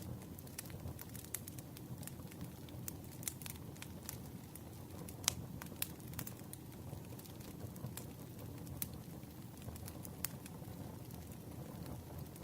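Campfire burning: a steady low rumble of flames with irregular crackles and snaps of burning wood, the sharpest pop about five seconds in.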